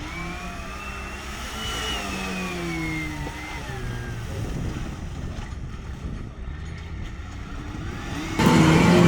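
Off-road vehicle engine revving, its pitch rising and then falling over a steady low rumble. About eight seconds in it suddenly gets much louder.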